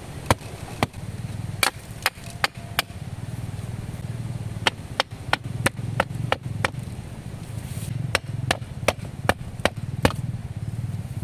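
Wood being chopped: sharp, separate strikes at an uneven pace of about one or two a second. Under them is a steady low drone that starts about a second in and cuts off at the end.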